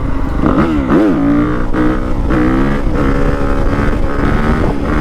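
Yamaha WR250F's 250cc single-cylinder four-stroke engine through a stock YZ slip-on exhaust, revving up and down in repeated swings, with a sharp rise and fall about a second in.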